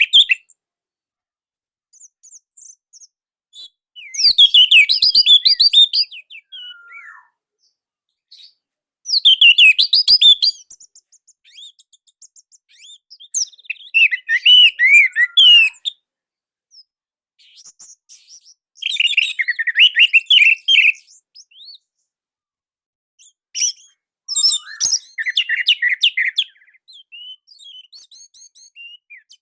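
Orange-headed thrush singing in loud phrases of rapid, varied whistled notes, about five phrases each a second or two long, separated by pauses of a few seconds with faint short notes between them.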